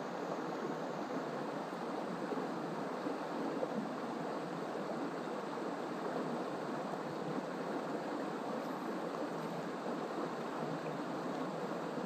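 A mountain stream's flowing water: a steady, even rushing.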